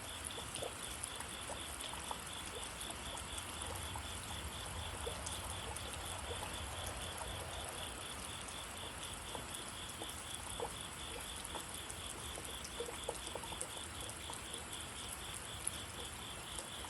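Steady rain falling, with scattered nearby drips. Behind it runs a steady high-pitched chirping, pulsing about four times a second.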